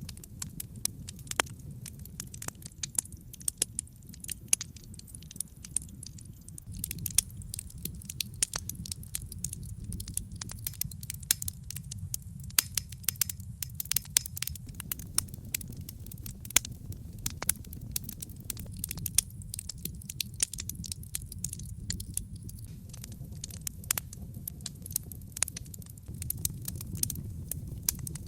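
Wood logs burning in a brick fireplace: a steady low rumble of flame with many sharp, irregular crackles and pops.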